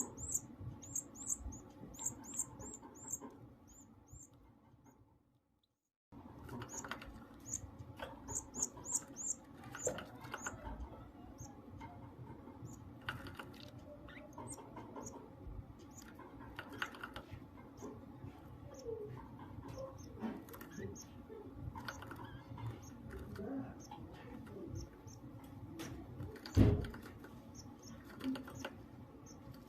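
Goldfinch-canary hybrid chick begging with runs of rapid, high-pitched peeps while the mother canary feeds it, over light scratching and clicking in the cage. The sound fades out to silence about four to six seconds in, then resumes. A single loud knock comes near the end.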